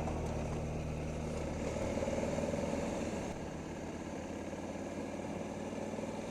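Honda CRF1100 Africa Twin motorcycle's parallel-twin engine running steadily, a little quieter after about three seconds.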